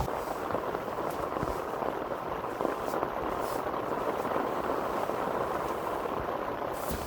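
Heavy rain falling steadily, a dense even hiss with a few sharper single drop hits.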